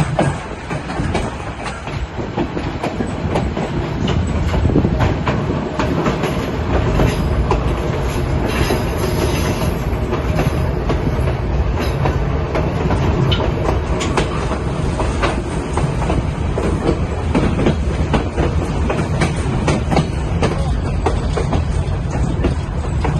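White Pass & Yukon Route train running on its narrow-gauge track, wheels clattering steadily over the rail joints.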